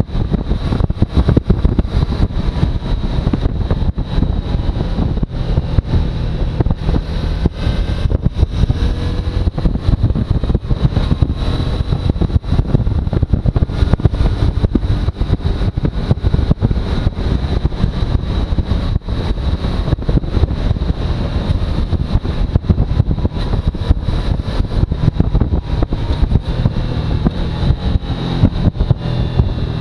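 Suzuki V-Strom motorcycle underway, its engine running with revs faintly rising and falling, buried under heavy wind buffeting on the microphone.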